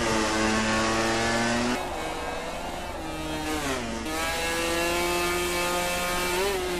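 MotoGP racing motorcycle engine running at high revs. Its pitch drops through the middle, then climbs back and holds high.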